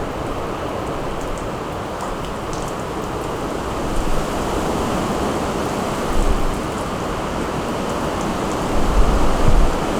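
Steady rain falling, a continuous hiss of drops. Low gusts of wind buffet the microphone about six seconds in and again near the end.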